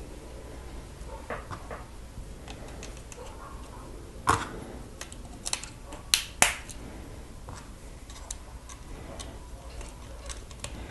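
Small plastic Lego pieces being handled and pressed together, with scattered sharp clicks and snaps; the loudest come about four seconds in and twice just after six seconds.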